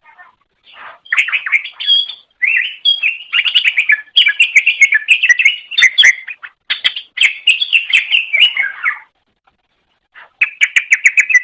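Cucak ijo (green leafbird) singing a fast, varied chattering song of rapid chirps and trills. It pauses briefly about nine seconds in, then starts again.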